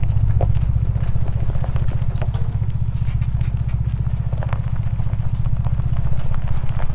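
Ford Bronco's engine running steadily at low trail speed, a deep even rumble, with scattered light crackles and clicks from the trail.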